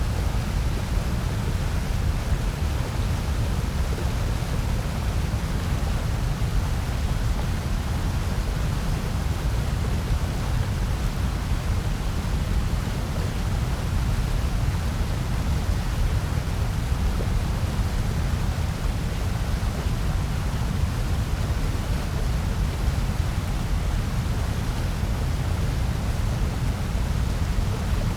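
Steady generated noise, a continuous hiss-and-rumble with no variation, heavier in the low rumble than in the high hiss.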